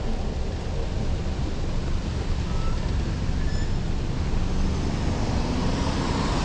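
Wind buffeting the microphone of a camera on a moving bicycle, over steady road and traffic noise. A broader rushing noise swells near the end.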